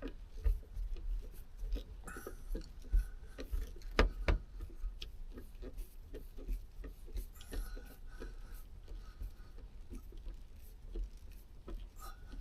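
Irregular light clicks and taps of hand tools and plastic trim being worked loose, with a sharper knock about four seconds in.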